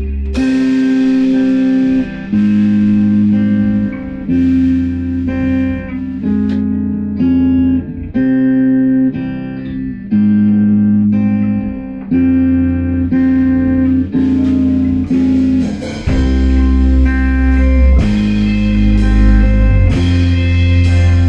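Instrumental passage of a band rehearsal: guitar playing held chords that change every second or two, with heavy bass notes coming in strongly about three-quarters of the way through.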